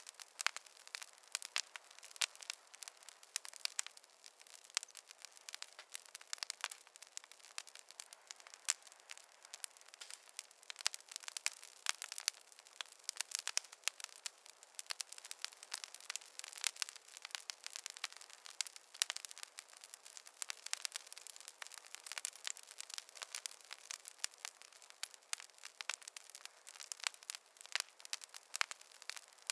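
Wood fire crackling: many small irregular pops and snaps over a faint hiss.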